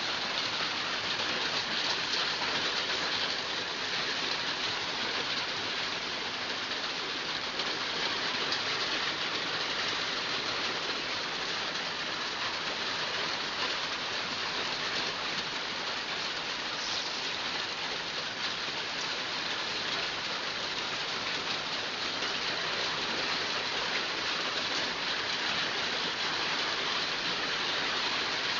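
Heavy rain falling steadily and pattering on surfaces.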